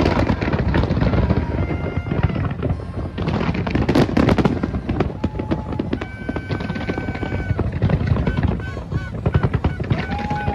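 Fireworks display: rapid, dense crackling and popping with heavier bangs mixed in. Several held steady tones sound through it, about six seconds in and again near the end.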